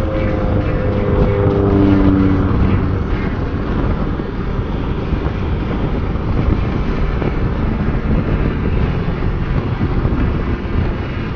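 Motorcycle riding: the engine note falls over the first two and a half seconds as the revs drop, then steady wind and road rush with the engine underneath.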